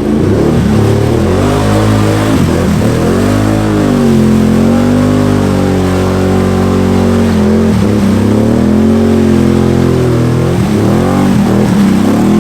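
Can-Am Outlander 850 XMR ATV's V-twin engine through an MBRP performance exhaust, revving hard under load. Its pitch climbs and drops again and again as the throttle is worked, with several deep dips.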